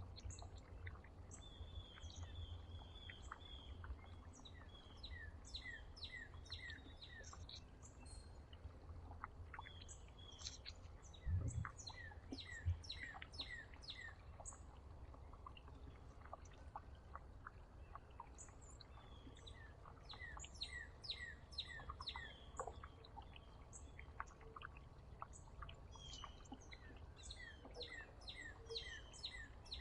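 Small songbirds chirping and calling in repeated quick runs of short notes over a steady low rumble. Two dull thumps a little before the middle.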